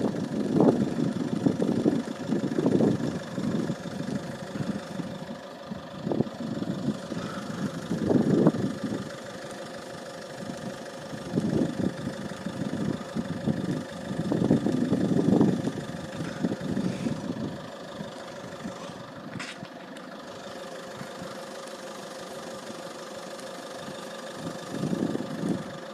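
Engines running steadily at idle, with irregular low rumbling swells every few seconds.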